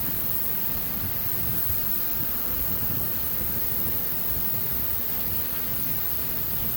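Steady hissing rush of water spraying into a scooter's fuel tank as it is flushed clean.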